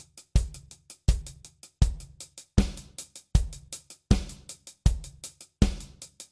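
Drum kit playing a steady sixteenth-note groove: both hands alternate sixteenths on the hi-hat, the snare lands on beats 2 and 4, and the bass drum hits on every beat, at about 80 beats a minute.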